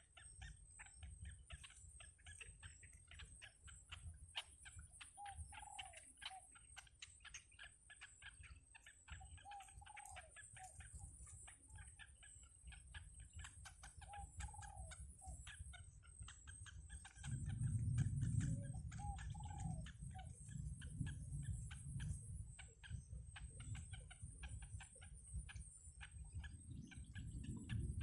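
Faint bird calls: a short arched call repeats about every four to five seconds over scattered clicks and a steady high-pitched hum. A low rumble comes in about two-thirds of the way through.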